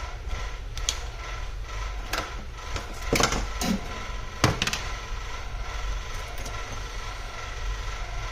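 A few sharp clicks and knocks of hand tools and parts being handled during laptop disassembly, over a steady low hum.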